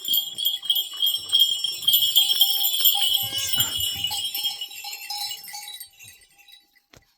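Bells worn by a flock of sheep and goats clinking and ringing as the animals move, with a short bleat near the middle. The ringing fades out about six seconds in.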